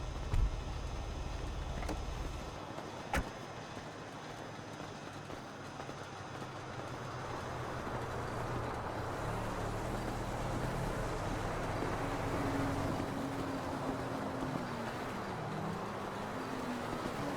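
Car engines running, with a low rumble that fades after about two and a half seconds. A sharp click comes about three seconds in. From about eight seconds a car grows louder, its engine note rising and falling.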